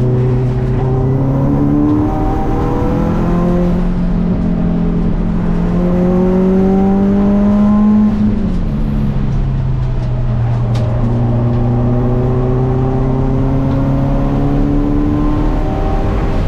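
Car engine pulling hard under acceleration, its pitch climbing slowly, dropping sharply about eight seconds in, then climbing slowly again.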